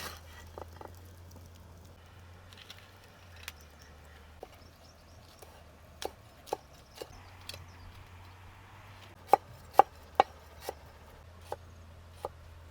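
Chopping food with a knife, in single sharp strokes spaced about half a second apart with pauses between runs. The three loudest strokes come together about three quarters of the way through.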